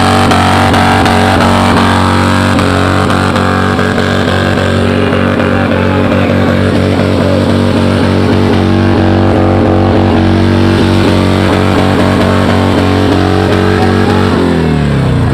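Motorcycle engine running at a steady speed, with music under it; near the end the engine note drops and then climbs again.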